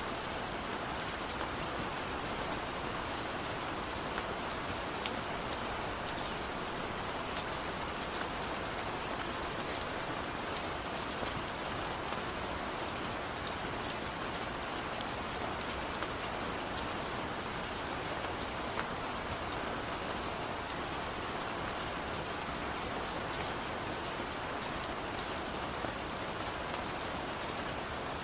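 Steady rain falling, an even hiss with scattered small drop ticks on a surface; no thunder.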